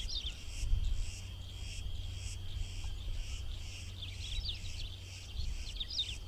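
White-rumped Tanager singing: short bursts of quick, chattering chirps, heard three times. Behind them are a steady, pulsing insect buzz and a low rumble that swells about a second in.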